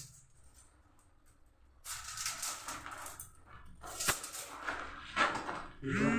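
A dog gives a short whimper near the end, its pitch rising and falling, after soft rustling and a sharp click about four seconds in.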